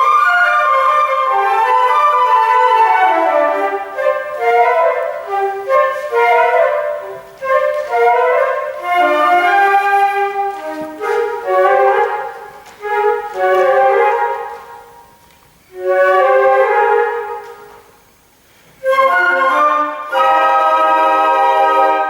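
A flute ensemble playing classical music: several flute parts in quick, short phrases. The playing dies away twice, briefly, near the middle and again about 18 seconds in, then comes back with all parts together.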